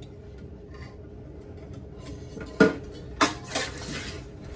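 Kitchen clatter from handling a pot and utensils: faint clicks at first, then a few sharp knocks and a rattling scrape from about two and a half seconds in.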